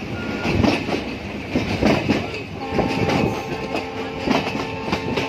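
Banalata Express passenger train running, heard from aboard: wheels clattering over the rail joints in a rough, repeated knocking. From about halfway through, a steady multi-note tone joins in: the train's horn sounding.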